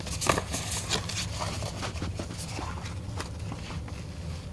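A paper poster being handled and unrolled: irregular rustles and scrapes, loudest in the first second, over a low steady hum.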